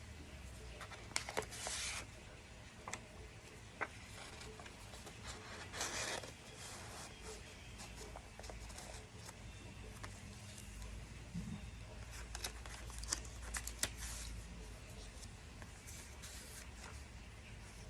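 Scattered short rustles, scrapes and light clicks of small objects being handled, over a low steady hum.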